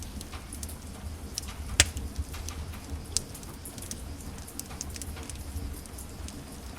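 Wood fire in a fireplace crackling, with frequent small snaps over a low steady rumble of the flames. There is a sharp loud pop about two seconds in and another about a second later.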